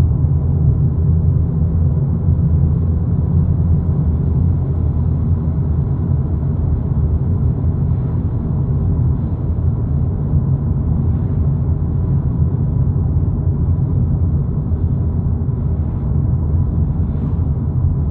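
Steady low rumble of road and engine noise from a 2022 Volkswagen Polo GTI cruising at an even pace, heard from inside the cabin.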